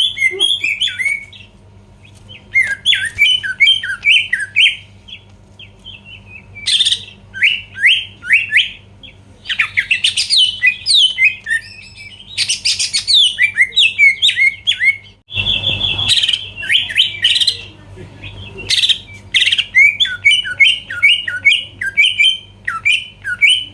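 Cucak ijo (green leafbird) singing in repeated phrases of quick, falling chirps, broken several times by short, loud, harsh notes. A faint steady low hum runs underneath.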